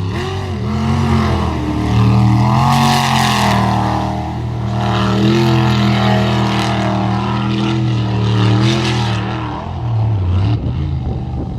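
Unlimited V8 jet sprint boat engine running hard at full race pace, its pitch rising and falling several times as the throttle comes on and off, over rushing water and wind. Near the end the running turns choppy and uneven.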